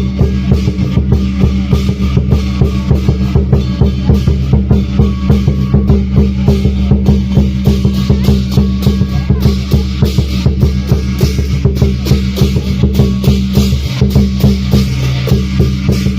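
Lion dance drums and cymbals playing a fast, steady beat.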